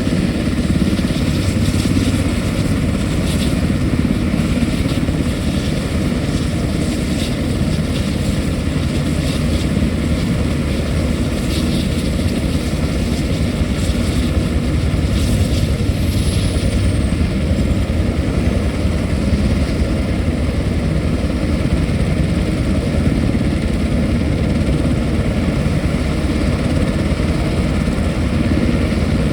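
Military helicopter running, with a steady fast rotor beat and turbine noise. A faint high whine falls briefly about halfway through.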